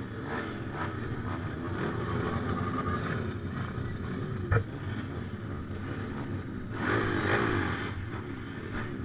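Motocross motorcycle engines running with wavering pitch, growing louder with a rise and fall in revs about seven seconds in. A single sharp knock about four and a half seconds in.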